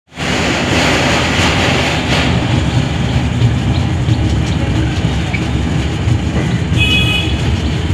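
A moving train, heard from inside the carriage: a steady rumble and rattle of wheels running on the track, with a brief high-pitched tone near the end.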